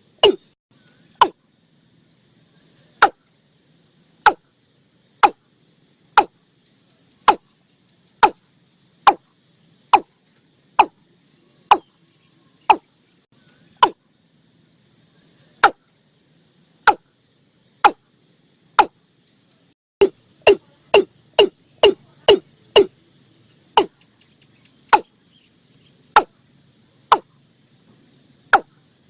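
Male watercock calling: short, sharp notes that each drop quickly in pitch, repeated about once a second, with a quicker run of five or six notes about two-thirds of the way through. Faint insects trill steadily behind.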